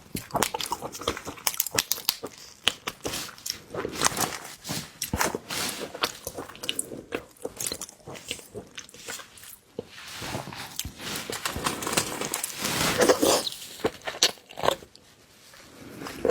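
Close-miked eating sounds: seafood being bitten and chewed, with many sharp crunches and wet clicks, thickest and loudest a little past the middle and easing off near the end.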